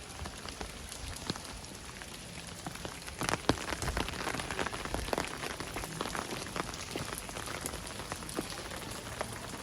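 Steady rain falling, with many sharp, close drop hits ticking through it, thickest about three seconds in and again around five seconds.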